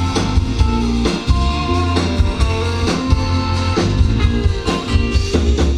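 Live country band playing an instrumental passage between vocal lines, with sustained guitar notes over bass and a drum kit keeping a steady beat.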